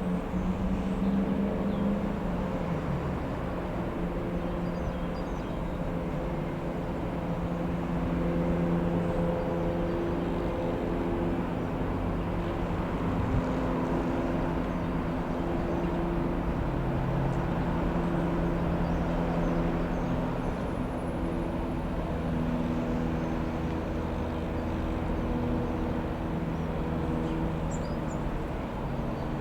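Piper PA-28-161 Warrior II light aircraft passing overhead: the steady drone of its single four-cylinder Lycoming piston engine and propeller, its pitch drifting slightly.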